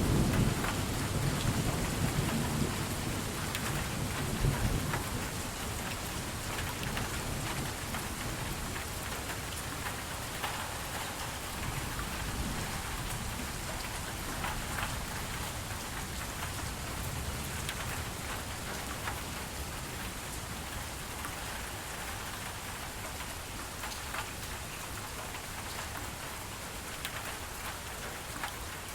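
Steady rain falling on a surface, with a thunder rumble dying away over the first few seconds.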